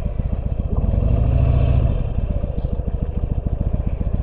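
Harley-Davidson Sportster 883's V-twin engine running at low revs with an even pulsing beat, swelling louder for about a second with a touch of throttle.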